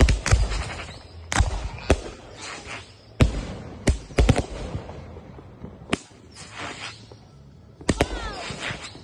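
Backyard consumer fireworks going off: about a dozen sharp bangs at irregular intervals, some followed by a brief crackling hiss.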